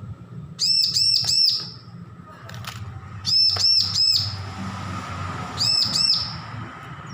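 Bar-winged prinia (ciblek) calling in three short bursts of quick, high, arched chirps: three notes, then three, then two.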